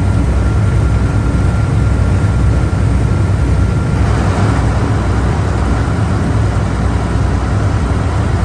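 Boat engine running steadily: a loud, even, low drone with hiss of water and wind over it.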